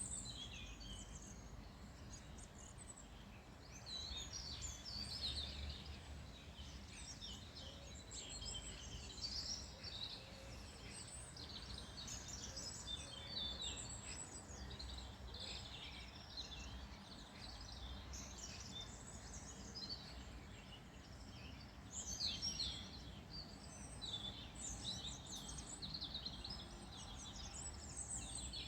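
Several small birds singing and chirping at once in a dense, continuous chorus of short high calls and trills, over a steady low rumble.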